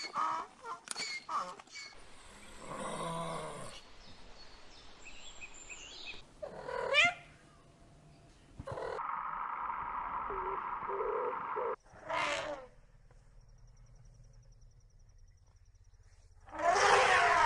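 A string of short animal calls with gaps between them, the loudest a roar near the end.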